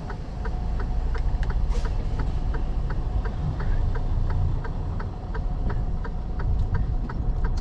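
Semi truck's diesel engine running, heard inside the cab, with a turn-signal relay clicking steadily at about three to four clicks a second.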